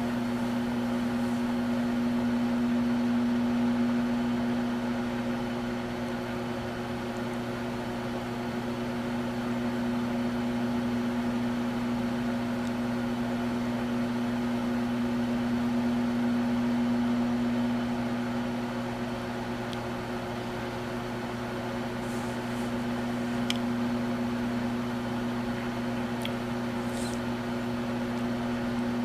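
Microwave oven running: a steady electrical hum that holds through, with a few faint ticks near the end.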